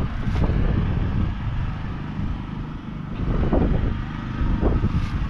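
JCB Fastrac 4220's 6.6-litre six-cylinder diesel engine running steadily under load, swelling briefly a couple of times.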